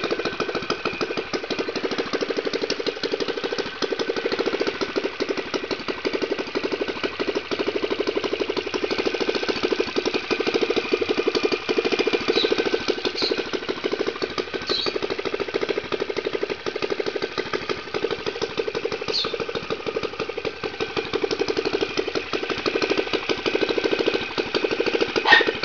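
Motorized bicycle's four-stroke engine, with worked head, carburettor, filter and cam, idling steadily with a rumble through a cut-and-welded two-stroke exhaust. A single sharp click near the end.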